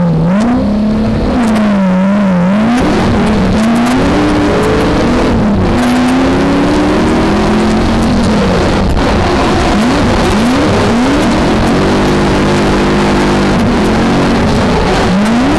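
V8 engine of a BMW E30 drift car heard from onboard while drifting, revving hard with its pitch climbing and falling again and again as the throttle is worked, with quick dips and sharp rises in the later seconds.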